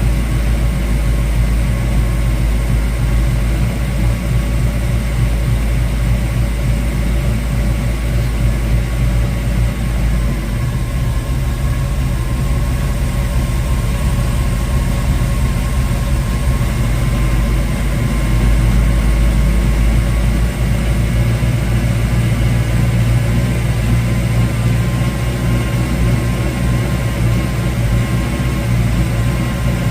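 1972 Ford Mustang Mach 1's V8, fitted with a Crane 2040 cam and breathing through a single 3-inch exhaust with a Black Widow Venom muffler, idling steadily while it warms up after a first start. Its ignition timing has not been set yet. The engine gets briefly a little louder about 18 seconds in, then settles back.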